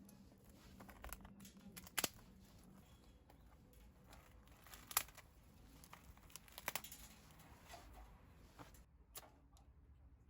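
Wood fire crackling faintly, with a few sharp pops every second or two.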